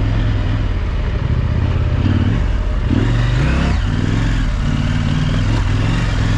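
Adventure motorcycle engine running steadily while riding, its pitch rising and falling a little with the throttle, over wind and road noise.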